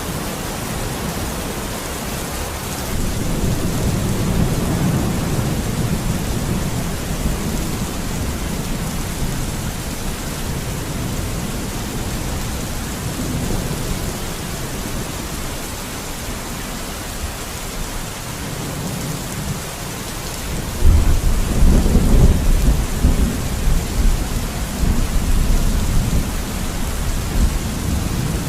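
Steady heavy rain with rolling thunder. A low rumble swells a few seconds in, and a louder, deeper roll of thunder comes about two-thirds of the way through.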